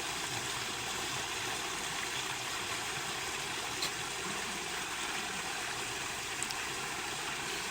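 Water of a small stream running steadily, with two brief ticks about four and six and a half seconds in.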